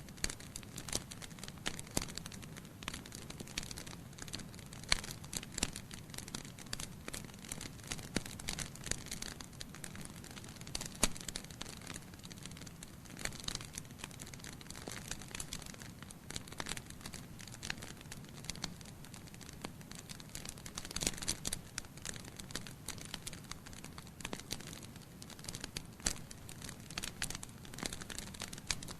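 Wood fire burning logs in a fireplace, with frequent irregular sharp crackles and pops over a steady low hiss.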